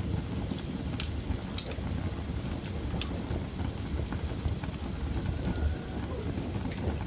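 Wood fire burning in a fireplace: a steady low rush of flame with scattered sharp crackles and pops, the loudest about three seconds in.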